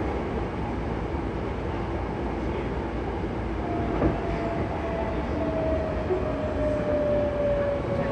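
Hankyu 8300 series train heard from inside the car running in a subway tunnel, a steady rumble of wheels on rail with a single knock about four seconds in. From about three and a half seconds in, the Toyo GTO-VVVF traction motors whine with a pitch that falls slowly as the train slows on the approach to the station.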